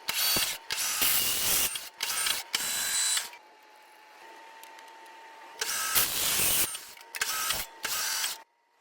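Lathe machining noise in a string of short, abrupt bursts of hissing, grinding noise over a faint steady whine, with a quieter stretch of about two seconds in the middle.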